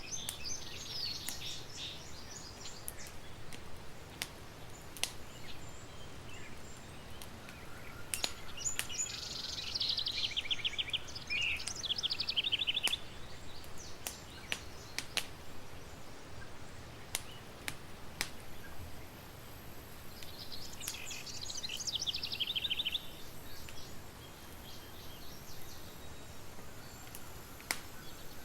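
Campfire crackling, with a steady hiss and sharp pops every second or few. A songbird sings three bursts of quick trilled phrases, near the start, about a third of the way in and again about two-thirds of the way through.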